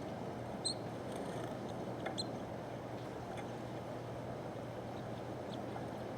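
Small birds giving a few brief, high chirps, scattered across a few seconds over a steady low background noise.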